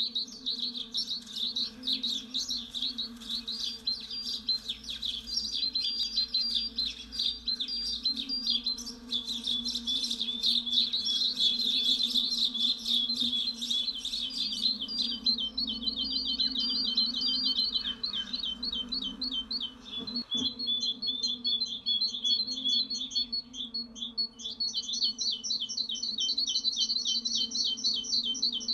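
Small birds chirping and twittering in rapid, repeated high-pitched notes, over a steady low hum. The chirping changes to a different repeating pattern about two-thirds of the way through.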